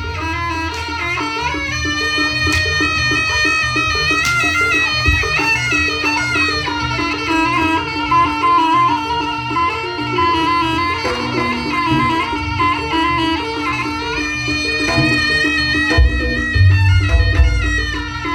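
Jaranan ensemble music: a slompret (Javanese shawm) playing a reedy, bending melody over a steady drone and drumming, with the drums heavier near the end.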